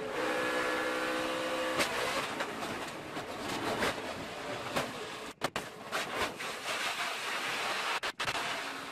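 In-car audio from a NASCAR race truck: the V8 engine runs at a steady pitch for about the first two seconds, then a loud rushing noise takes over. The sound cuts out briefly twice, about five and a half and eight seconds in.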